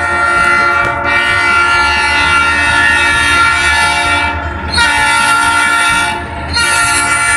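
Train horn blowing in three long blasts with two short breaks between them, over the low rumble of the train.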